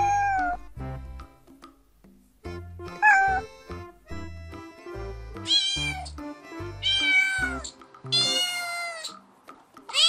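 Domestic cat meowing five times, separate drawn-out meows, some falling in pitch at the end, over background music that drops out near the end.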